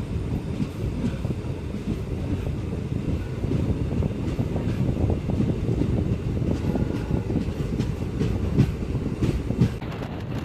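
Passenger train running on the rails: a steady, low rumble of wheels and carriages, with scattered knocks of wheels over rail joints and a couple of sharper knocks near the end.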